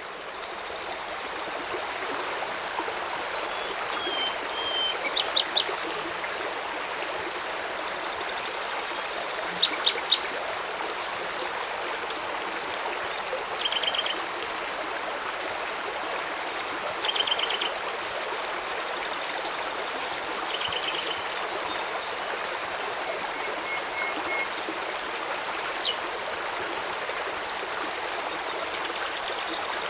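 Steady rushing of a flowing river, with birds giving short chirping trills every few seconds.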